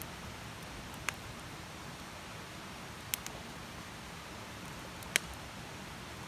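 Wood campfire burning with a steady soft hiss. Three sharp crackling pops come about two seconds apart.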